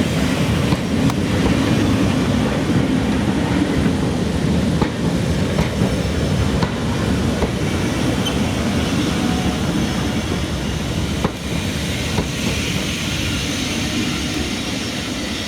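A steam-hauled passenger train rolling past as it draws in, a steady heavy rumble of wheels on rails with occasional clicks over the rail joints.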